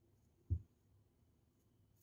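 A single soft, dull thump about half a second in, in an otherwise quiet room.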